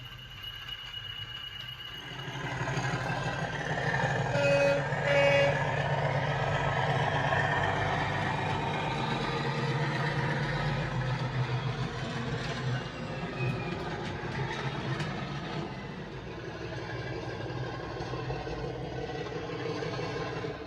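OO gauge model locomotive's DCC sound decoder playing a diesel engine sound that swells about two seconds in and runs on steadily, with two short horn toots about four and five seconds in.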